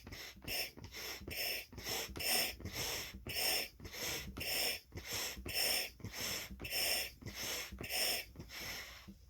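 Balloon being blown up with quick, rhythmic puffs of air, about two a second, every other one stronger.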